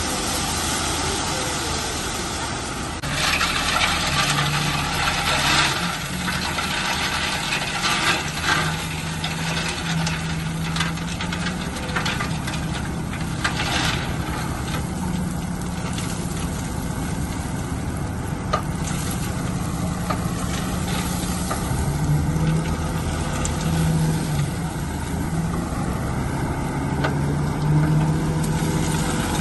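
Bulldozer's diesel engine running under varying load, its pitch shifting up and down. Bursts of harsher, rougher noise come about three to six seconds in and again around twelve to fourteen seconds.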